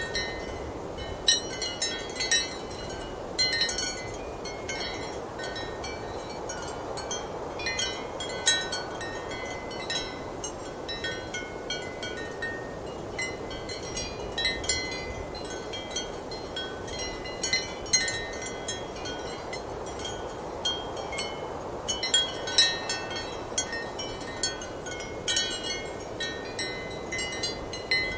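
Ceramic wind chimes clinking irregularly in strong wind, short bright knocks that ring briefly, over a steady rush of wind.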